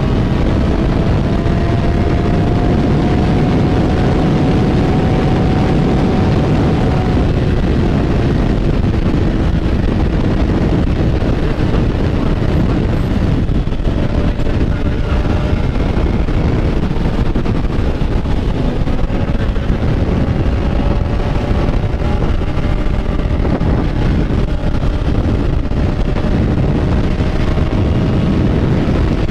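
Motorcycle engine running while riding, its pitch drifting slowly up and down with the throttle, under heavy wind noise on the microphone.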